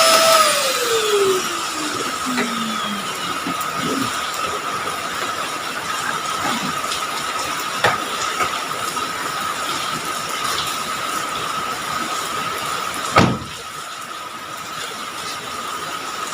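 A small electric motor, like a car-wash vacuum cleaner, switched off and winding down, its whine falling in pitch over the first few seconds. Then a steady hiss of heavy rain, with a single knock a few seconds before the end.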